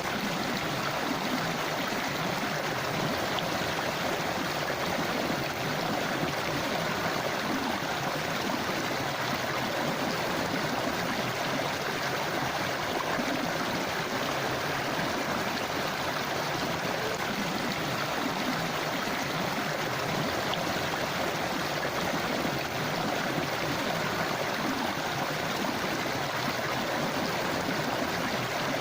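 Forest river flowing, a steady, unbroken rush of water.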